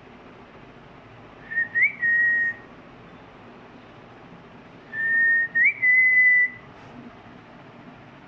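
A pet parrot whistling two short phrases a few seconds apart, each a steady tone with a quick upward flick partway through; the second is longer.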